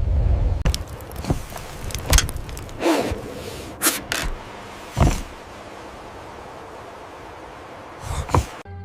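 A low rumble, then a string of sharp, irregular cracks and knocks, about seven over several seconds, the last two near the end, over a faint steady hum.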